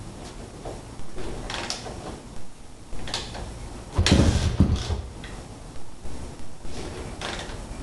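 Irregular mechanical clunks and scrapes from a Honda XR250R dirt bike being readied for a cold start, before the engine runs. The loudest is a heavier clunk with a short low rumble about four seconds in.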